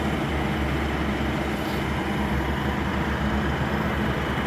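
A vehicle engine running steadily, a constant low rumble with no change in pitch.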